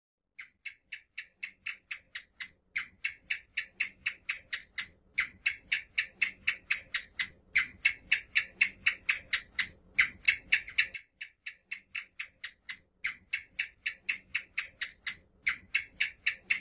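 House gecko (cicak) chirping: a long series of dry clicks, about five a second, in runs of a few seconds with short breaks, starting about half a second in.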